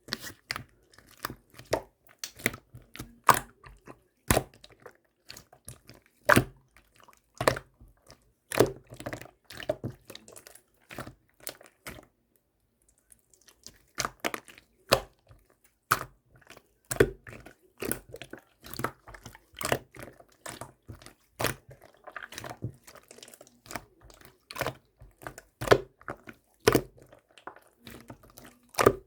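Gold pearl slime topped with clay being pressed and pulled by hand, giving irregular sharp sticky pops and crackles about one or two a second, with a brief pause about halfway through.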